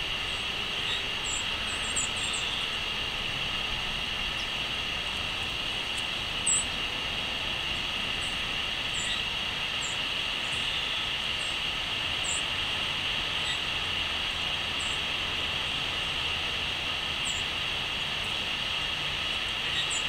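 Small garden birds giving short, very high-pitched calls, one every second or two, over a steady background hiss.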